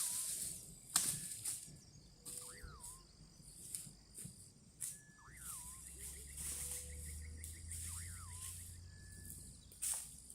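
Forest ambience with a steady high buzz of insects and a bird repeating a short rising-then-falling call every two to three seconds. A few sharp cracks of dry branches break through, about a second in, near five seconds and near the end.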